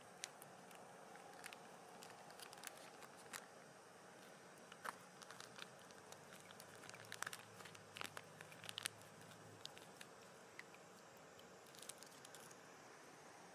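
Faint, irregular crackles and clicks, bunched together about halfway through, over a quiet steady background.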